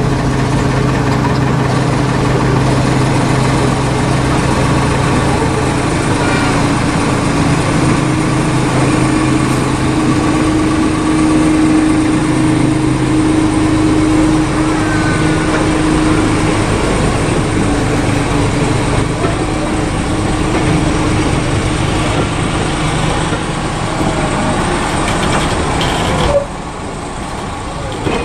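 Diesel train engine running steadily with a deep hum, which eases somewhat about halfway through. Near the end the sound cuts off abruptly to a quieter background.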